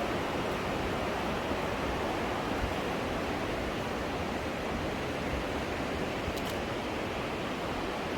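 Steady rushing of the Aare river flowing through its narrow limestone gorge, an even wash of water noise with no change in level.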